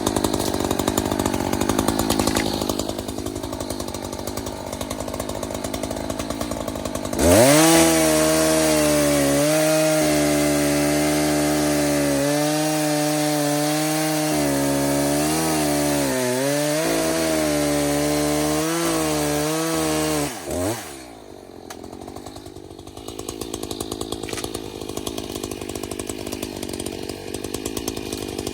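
Echo CS-590 TimberWolf two-stroke chainsaw running at a low, rattling speed, then opened to full throttle about seven seconds in. Its pitch sags several times as it works through a dead, dry tree. It drops back to the lower speed after about thirteen seconds.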